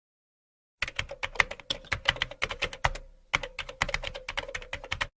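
Computer keyboard typing sound effect: a quick, uneven run of key clicks that pauses briefly midway and then resumes.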